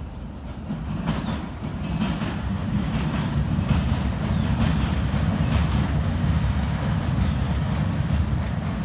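BNSF diesel locomotives running light go by with a heavy, steady engine rumble and wheels clicking over the rail joints. It grows louder over the first couple of seconds, then holds.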